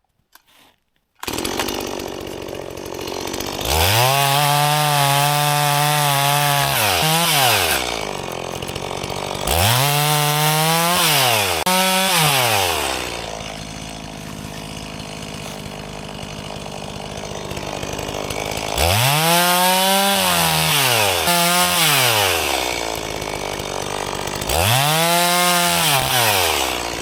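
Chainsaw revving up and cutting firewood about four times, each cut a few seconds long, its pitch rising as it goes to full throttle and falling back to a lower idle between cuts.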